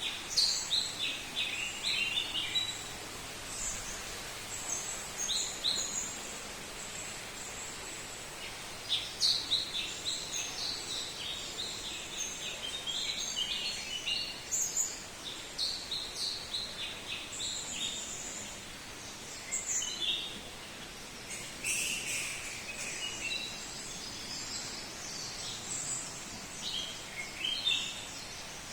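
Birds chirping and calling, many short high calls coming in clusters throughout, over a steady background hiss.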